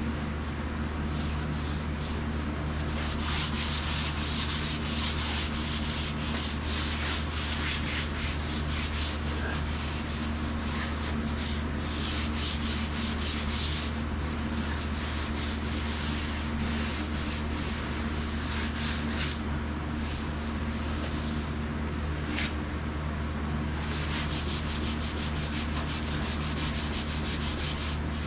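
Hand sanding painted metal with 220-grit paper: rapid back-and-forth rasping strokes in several runs with short pauses, a light scuff of the paint to check for flaws. A steady low hum runs underneath.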